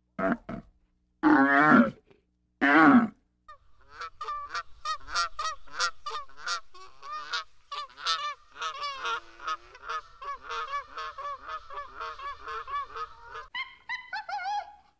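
Bactrian camels giving three loud, short calls, then a swan giving a long series of quick, short honking calls.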